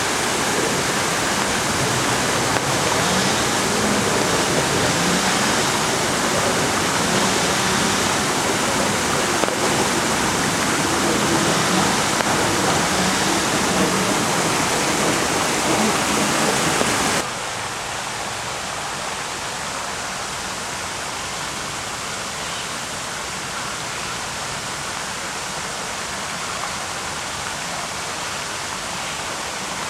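Steady rushing water noise, like a waterfall, loud and even, dropping suddenly to a lower level about halfway through. Faint voices sit underneath in the first half.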